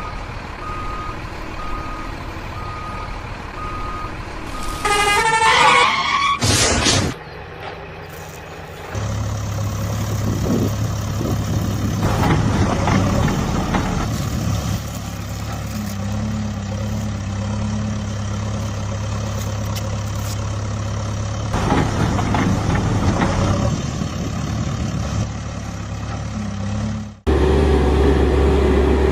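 Heavy-truck sounds: evenly spaced reversing beeps for about five seconds, then a short rising horn blare. After a brief lull a heavy vehicle engine runs steadily, with a change in engine note near the end.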